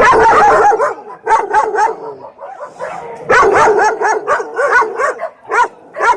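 Dogs barking and yipping: many short calls overlapping in dense runs, with a few single yaps near the end.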